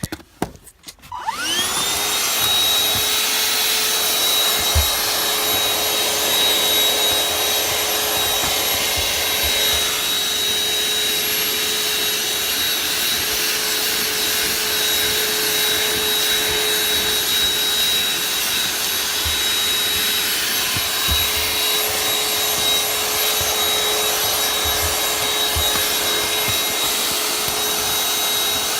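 Vacuum cleaner switched on about a second in, its motor whine rising as it spins up, then running steadily with a constant high whine and airflow hiss while vacuuming a car's interior.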